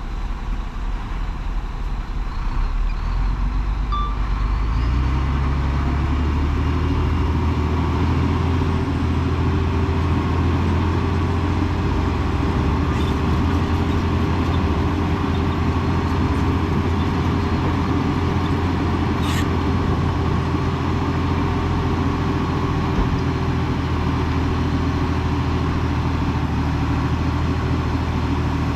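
Heavy diesel engine of earthmoving equipment picking up revs a few seconds in, then running steadily at high revs.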